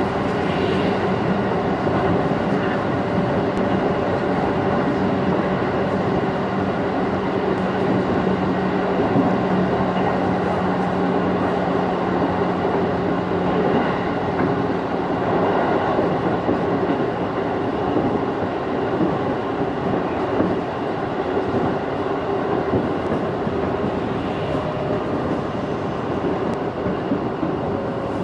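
A 211 series electric train running, heard from inside the car: steady rumble of wheels on rail with a hum from the motors and gears. A low hum drops away about halfway through.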